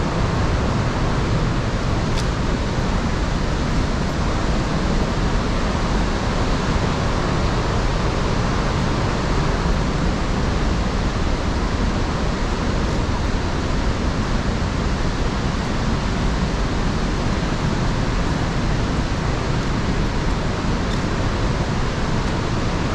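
Steady, loud rushing of the Iguaçu Falls, a continuous noise of falling water with no breaks.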